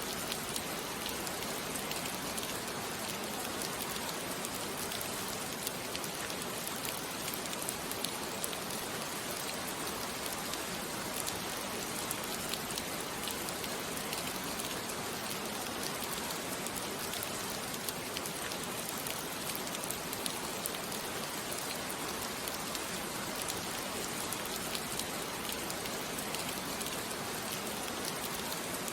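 Steady rainfall on a surface, a dense even hiss flecked with the ticks of individual drops, unbroken and unchanging.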